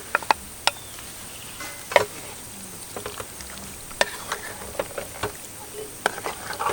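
Campfire crackling, with irregular sharp pops and clicks, over a steady high-pitched insect trill.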